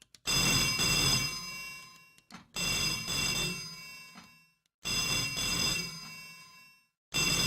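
Telephone bell ringing: four rings about two and a half seconds apart, each ring dying away before the next.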